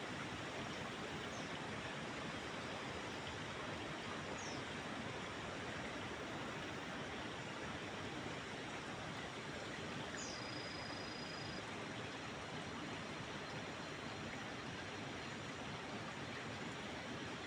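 Steady rush of a flowing forest stream. A few faint, thin high whistles sound over it, one held for about a second and a half near the middle.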